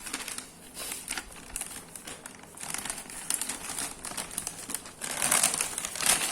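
Takeaway food packaging crinkling and rustling as it is opened by hand, with a burst of louder crinkling about five seconds in.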